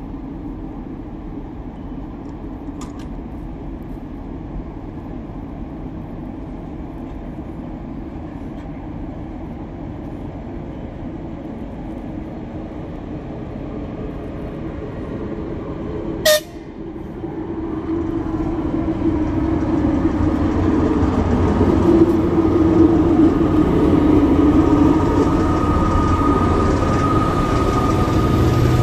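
Train running through a station, a steady rumble that grows louder from about two-thirds of the way through as it comes closer. A single short, sharp toot sounds just past the halfway point.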